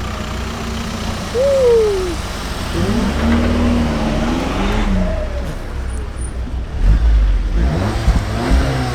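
A car engine running steadily, swelling louder twice, with a few distant voices over it.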